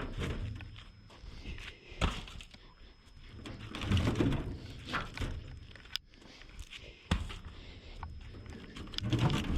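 Heavy firewood rounds being handled and thrown down: several separate dull thuds and knocks, the sharpest about two, six and seven seconds in, over a steady low rumble.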